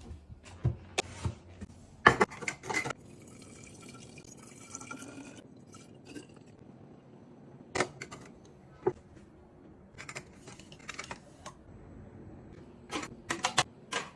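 Containers and packaged items handled with sharp clicks and knocks, and for a couple of seconds, about three seconds in, liquid being poured into a container.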